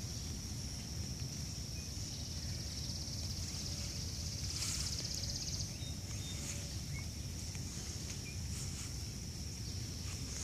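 Summer garden ambience after rain: a steady high-pitched insect trill, swelling into a pulsing buzz around the middle, with a few faint bird chirps and a constant low rumble of wind or handling on the microphone.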